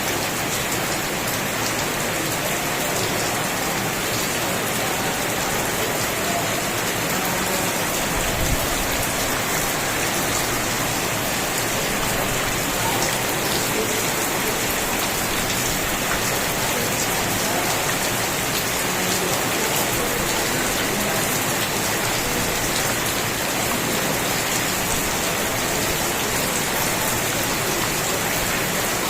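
Steady rain falling, an even unbroken hiss of drops, with a single brief low thump about eight seconds in.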